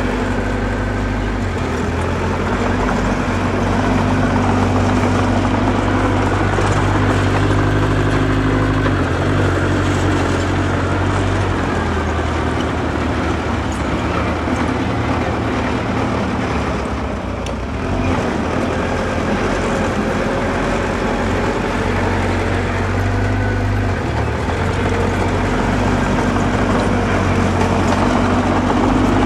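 Diesel engine of earthmoving machinery running steadily under load, its note shifting a few times and dipping briefly about two-thirds of the way through.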